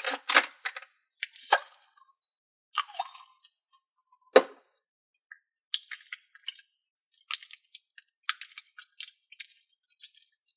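Neon slime being squeezed and worked in the hands, giving irregular wet clicks and small pops as air pockets burst, with one sharper pop about four seconds in.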